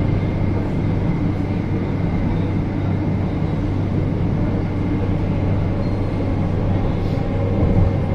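Hyundai Rotem electric commuter train heard from inside the car while running at speed through a tunnel: a loud, steady rumble of wheels on rail with a low hum and a thin, steady high tone.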